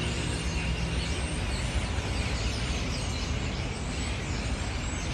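A dense chorus of many small birds chirping together, lots of quick downward-sliding chirps overlapping, over a steady low rumble of city traffic.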